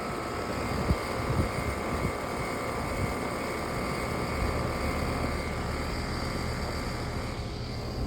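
Outdoor air-conditioner condenser unit running, a steady hum of fan and compressor with a few faint high tones, and a few low thumps in the first couple of seconds.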